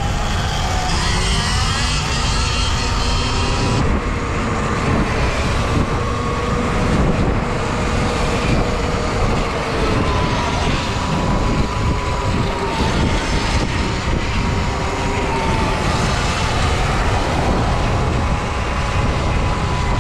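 Wind buffeting the microphone on a moving Sur-Ron electric dirt bike, with a thin steady whine that rises near the start and then holds, drifting slightly in pitch as the speed changes.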